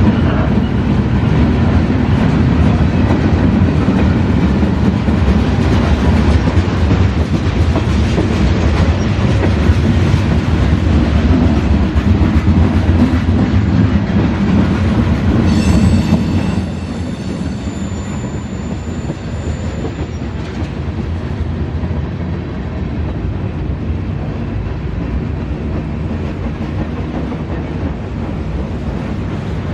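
CSX freight train cars rolling past with a loud, heavy rumble. About halfway through the rumble drops suddenly and continues at a lower level. A high-pitched metallic wheel squeal rings out for a few seconds around the same point.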